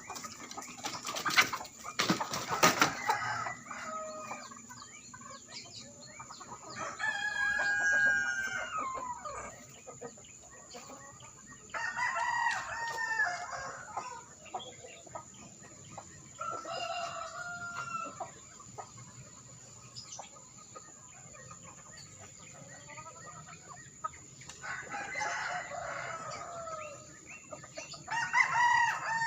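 Rooster crowing at dawn: about five long cock-a-doodle-doo crows spaced several seconds apart. A few sharp knocks come in the first few seconds.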